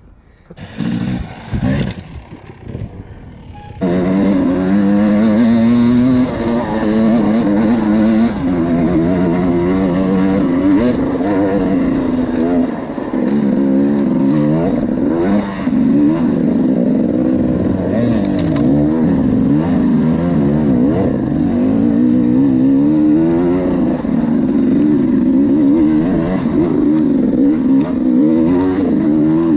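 Enduro motorcycle engine riding under load, its pitch rising and falling as it revs up and eases off. It comes in loud about four seconds in, after a few short sounds.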